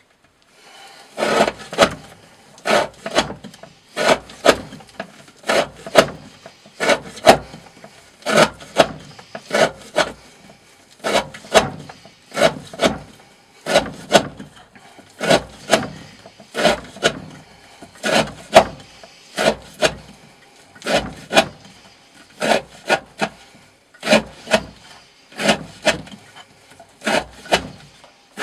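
D2-steel knife blade (Green Thorn 95 Hati, sharpened to a 40° V edge) slicing through 20 mm rope over and over, about one cut every second and a half, each cut a short rasping pair of sounds: a repeated rope-cutting test of how long the edge stays sharp.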